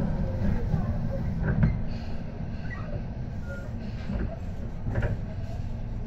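Running noise inside a Tobu 10030 series electric train car: a low rumble that eases off about two seconds in, with a few faint knocks.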